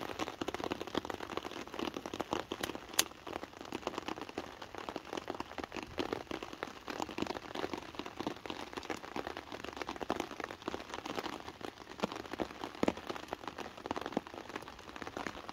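Rain pattering steadily on a tarp shelter overhead, a dense run of small taps with one sharper tick about three seconds in.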